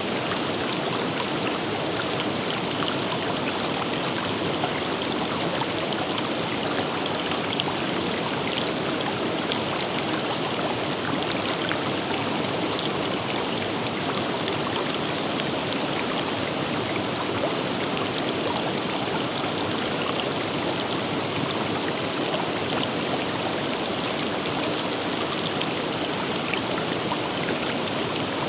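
Steady rush of a forest river flowing over rocks, an even wash of water noise with small splashes and gurgles scattered through it.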